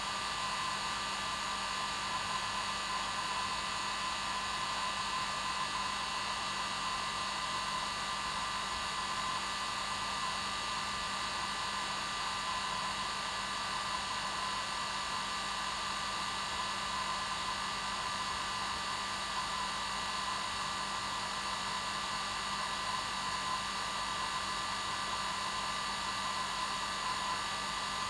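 Electric hair dryer running steadily, its fan and motor rushing with a constant whine and hum and no change in speed.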